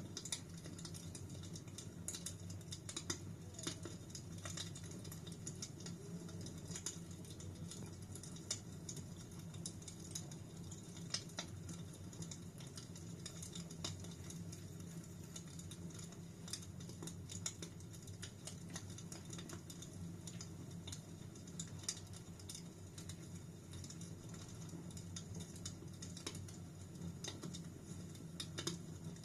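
Fire burning in a fireplace, crackling: a steady low rumble under frequent small crackles and a few louder pops.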